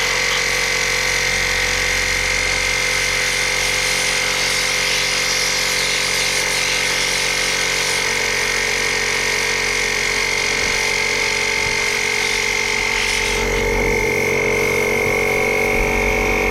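Compressed air from an air compressor's blow gun blasting steadily into an RV rooftop air conditioner to clear out dirt and cobwebs: a loud continuous hiss with a high steady whistle.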